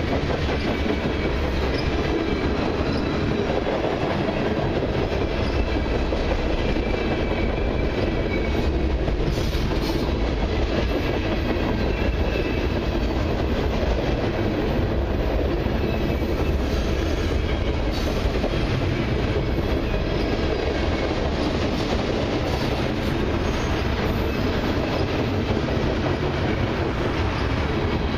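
Freight cars of a long mixed freight train rolling past close by: covered hoppers, centerbeam lumber cars and tank cars. Their steel wheels give a steady rumble and clatter on the rails, with a faint high wheel squeal at times.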